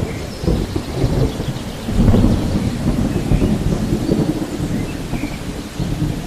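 Thunderstorm: thunder breaking suddenly at the start and rumbling on, swelling again about two seconds in, over steady rain.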